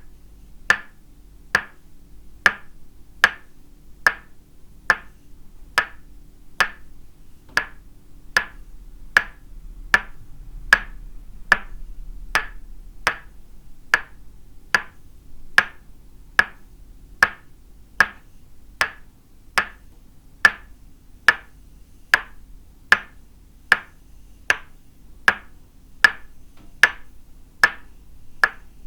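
Tok sen massage: a wooden mallet tapping a wooden peg held against the body, in a steady rhythm of a little more than one knock a second, each a sharp wooden knock with a brief ring.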